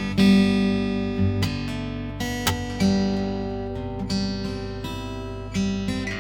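Solo acoustic guitar played fingerstyle: plucked notes ringing over held bass notes, a new note or chord every half second or so, the loudest about a quarter second in.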